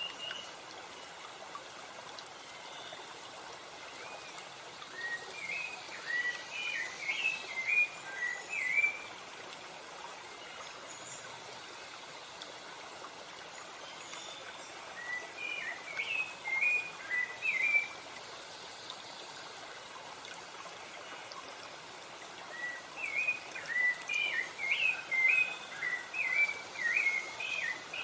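Steady rushing of a stream or waterfall, with a songbird singing three bouts of quick, chirping notes a few seconds apart.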